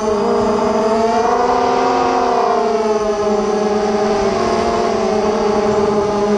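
Racing quadcopter's electric motors and propellers whining, several pitches wavering up and down together as the throttle changes.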